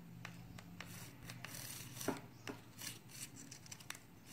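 Faint rubbing and small irregular ticks of a paper quilling strip being wound by hand into a tight coil.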